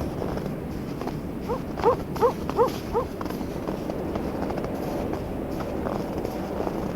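An animal gives five quick, short calls about a third of a second apart, each rising in pitch. They sound over a steady rush of wind.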